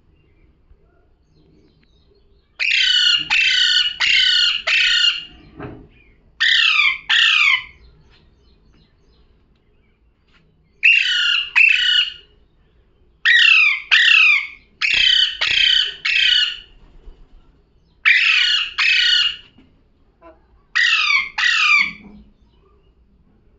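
Pet parrot squawking harshly in bursts of two to four short calls, each call falling in pitch, with pauses of one to several seconds between bursts.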